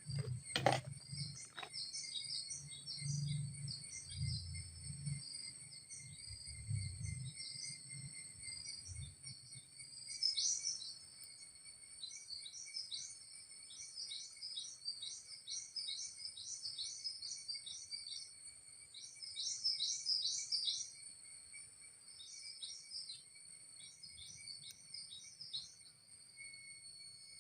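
Tropical forest ambience: a steady high-pitched insect drone, with a bird giving long runs of short, quick chirping notes. A few knocks come right at the start.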